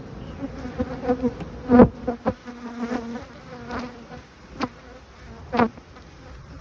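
Honeybees buzzing in an open hive, a steady drone that wavers in pitch. A few short, sharper sounds stand out over it, the loudest about two seconds in.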